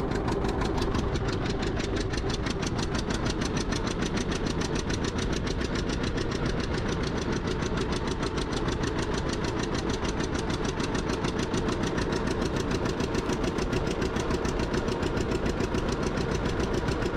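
Vintage tractor engine running steadily, with an even, rapid beat and no change in speed.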